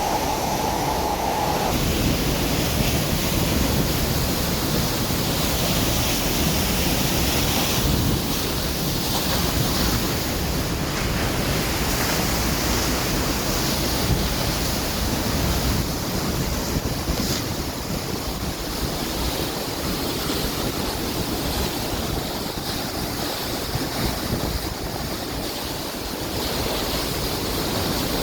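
Waterfall's water rushing and crashing in a steady, loud roar.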